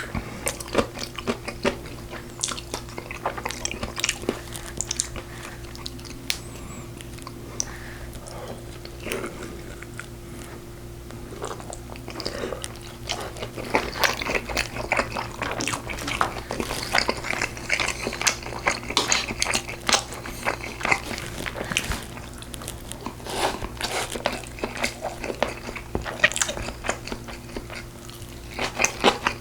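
Close-up mukbang eating sounds of braised pork ribs (galbi-jjim): wet chewing and biting with occasional crunchy bites. The bites come sparsely for a few seconds, then thicker from about halfway on, over a steady low hum.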